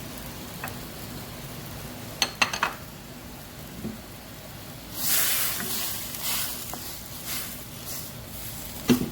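Stovetop cooking: a few quick clinks of a utensil against a pan about two seconds in, then about two seconds of sizzling hiss, and a sharp knock of cookware near the end.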